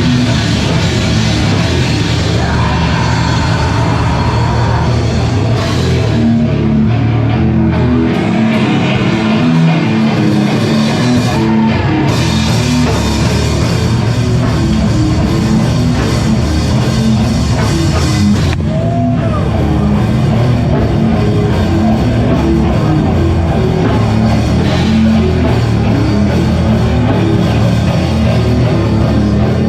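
Live rock band playing loud, heavy music with drums, guitar and bass. The lowest bass drops out for a couple of seconds about eight seconds in.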